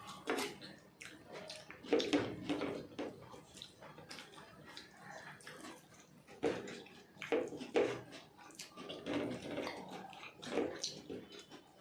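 Wet eating sounds from people eating biryani: irregular chewing, lip smacks and wet clicks, several a second.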